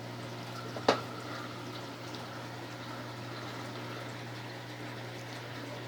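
Brastemp Ative 11 kg top-loading washing machine starting its rinse spin, the basket turning slowly at first, with a steady hum and the sound of water draining. A single sharp click about a second in.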